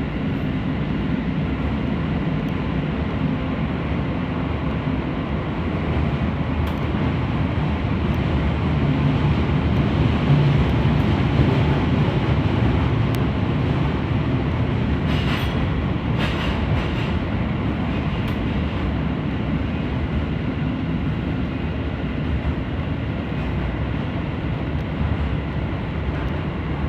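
Keisei 3000-series electric train running along the line, heard on board: a steady rumble of wheels and motors with a faint whine, and a few sharp clicks about midway.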